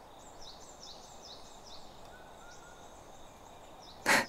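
Quiet outdoor ambience with a small bird chirping over and over in short, high, falling notes. A single short, sharp burst, much louder than the rest, comes about four seconds in.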